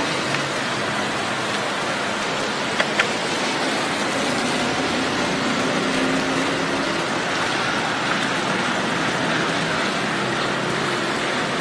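Steady rain falling on wet pavement, with the low hum of traffic driving through the wet streets. Two sharp ticks about three seconds in.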